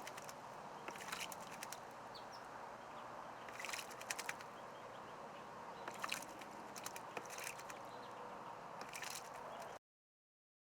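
Backyard outdoor ambience with faint bird chirps and short clusters of sharp clicks or splashes every second or two. The sound cuts off abruptly near the end.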